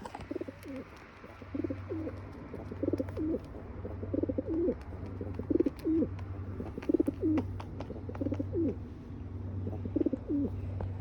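A bird's low cooing calls, about eight short phrases in a row, each with a quick pitch glide, over a steady low hum. A single sharp click at the very start.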